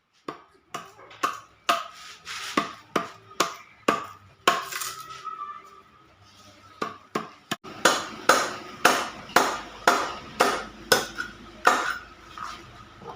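Repeated sharp strikes of a hand tool on the work, irregular at first, then a steady run of about two a second in the second half, with a slight ring after many of the blows.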